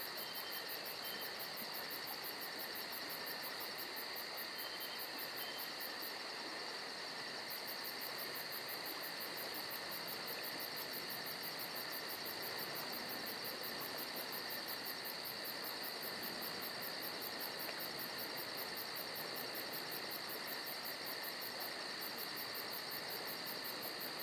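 Insect chorus, a cricket-like steady shrill trilling with a fast, even pulse.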